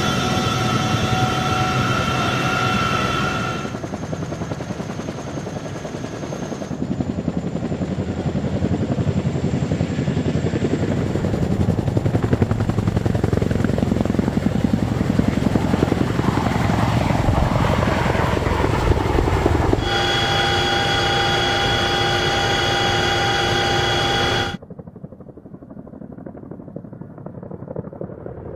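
Helicopter running: rotor chop over engine noise, with a steady high turbine whine at the start and again from about twenty seconds in. The sound changes abruptly several times, like spliced recordings, and cuts off sharply near the end, leaving a quieter rumble.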